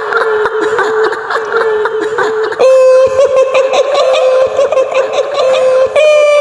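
High-pitched woman's laughter in a long run of rapid, even pulses, the shrill cackle attributed to the kuntilanak ghost. The pitch steps up about two and a half seconds in and again near the end.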